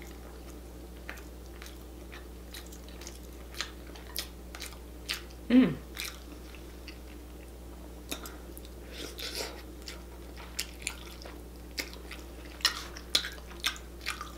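Close-miked chewing with wet mouth clicks and lip smacks as a person eats a saucy seafood boil by hand, the clicks coming thicker near the end. About five and a half seconds in there is one short, louder sound falling in pitch.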